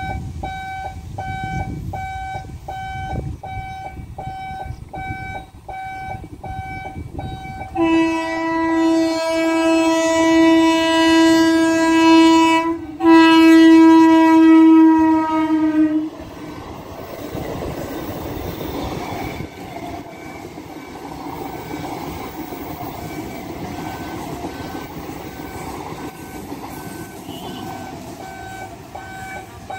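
Level-crossing warning alarm beeping rapidly and steadily. About eight seconds in, an ICF Medha electric multiple unit sounds its horn in two long blasts, the loudest part. It then runs past with a steady rumble of wheels on track while the alarm keeps beeping underneath.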